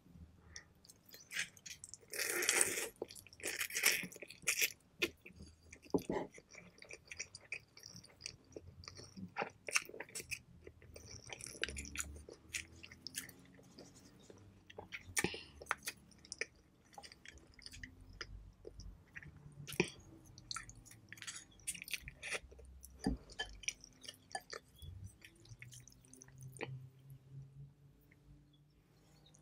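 Close-miked eating sounds of pho noodles being eaten: chewing with many small wet mouth clicks, and a louder burst of noise about two to three seconds in.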